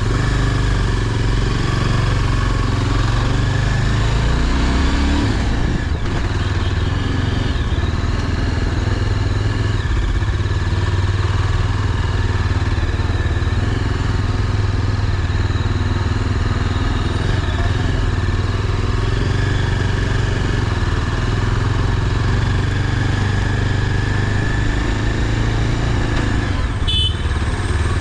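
Motorcycle running steadily while being ridden, a continuous low drone with no change in pace. A brief sharp click sounds near the end.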